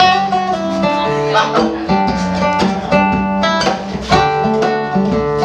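Acoustic guitar playing a slow, calm song intro: plucked and strummed chords, each note ringing on over a low bass line.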